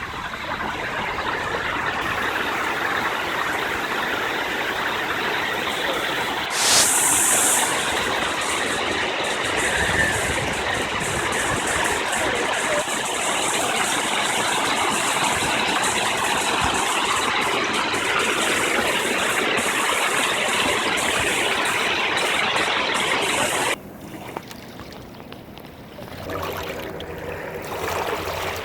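Rushing water, a steady even rush. About seven seconds in a brief high hiss rises over it, and near the end the rush cuts off abruptly to a much quieter scene.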